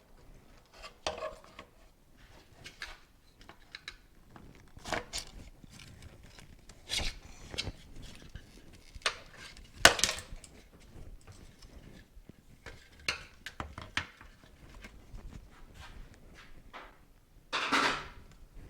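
Metal tools and parts clinking and clanking at irregular intervals during motorcycle disassembly. The sharpest knock comes about halfway through, and a longer clatter comes near the end.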